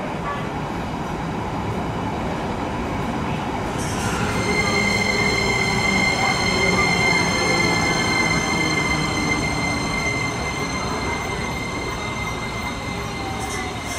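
JR Kyushu 885 series electric train rumbling slowly past as it pulls into the platform. About four seconds in, a steady high-pitched squeal sets in and holds, the brakes squealing as the train slows to a stop.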